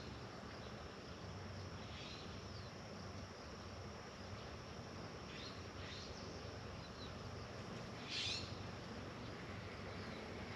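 A few short bird chirps over a steady outdoor hiss, the clearest chirp about eight seconds in.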